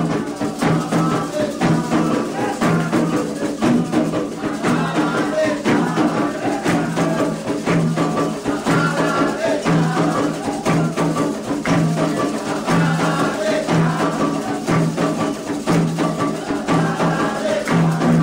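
Candomblé ritual music: atabaque hand drums and a metal bell keep a steady, driving rhythm while voices sing.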